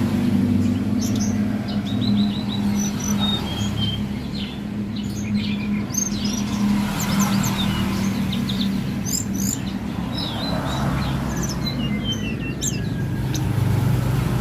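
A tledekan gunung songbird singing busily: clusters of quick, high chirps and short trills. A steady low hum runs underneath.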